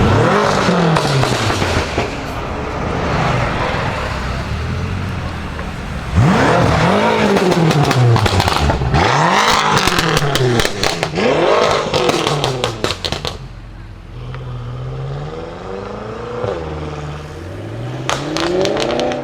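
BMW M5 F10's twin-turbo V8, with catless downpipes and an M Performance exhaust, revved hard several times, its pitch climbing and dropping, with a burst of crackles and pops on the overrun in the middle. Near the end the revs are shorter and quieter.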